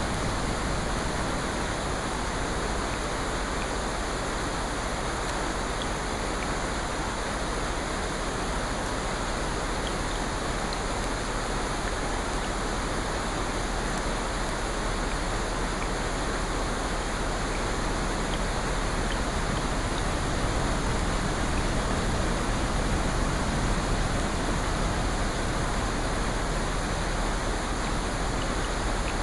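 Steady rushing water noise, even and unbroken, with a few faint scattered ticks.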